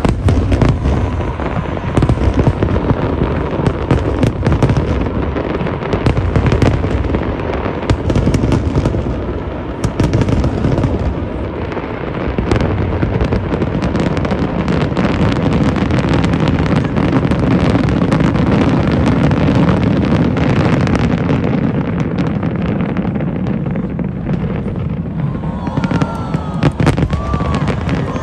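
Aerial fireworks going off in a dense, continuous barrage: many overlapping booms and bangs with crackle, loud throughout.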